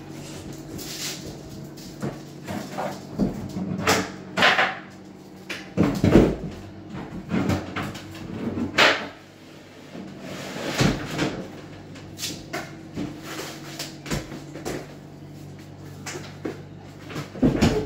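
Cabinet installation work: irregular knocks, bumps and scrapes of wooden cabinet parts and tools being handled, over a low steady hum.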